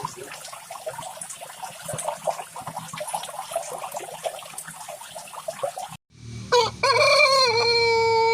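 Chickens clucking in quick, overlapping short calls. After a sudden break about six seconds in, a much louder single pitched call starts, wavers briefly, then holds a steady tone.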